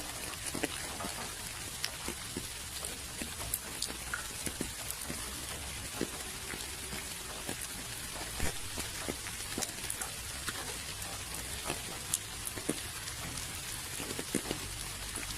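Steady rain with many individual drops pattering irregularly on a surface.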